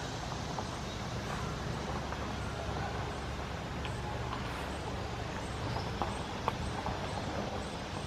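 Birds chirping in short, scattered calls over a steady low rumble, with a faint high note repeating about twice a second in the latter part.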